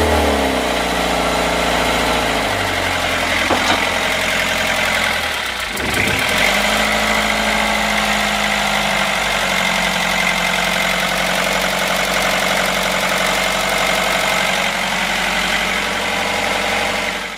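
Perkins 4-108 four-cylinder diesel engine running after being recommissioned from a long lay-up with a new Lucas injection pump and reset injectors. Its speed falls in the first second, dips briefly about six seconds in and picks up again, then holds a steady idle.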